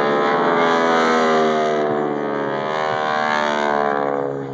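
Propeller airplane engine passing close by, its pitch falling as it goes past, then fading near the end.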